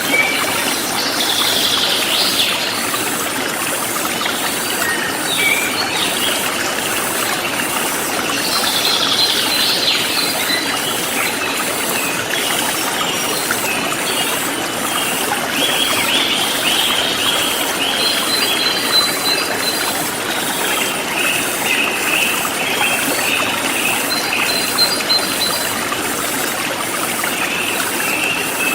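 Forest stream flowing steadily, with birds chirping and trilling at intervals over it: short chirps near the start, a burst of calls about eight seconds in, and repeated trills in the second half.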